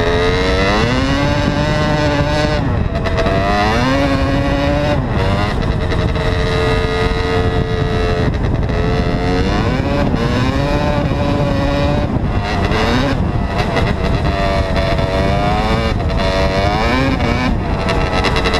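Dirt bike engine being ridden hard, its pitch climbing as the throttle opens and dropping back every few seconds, with a few steadier stretches held in between.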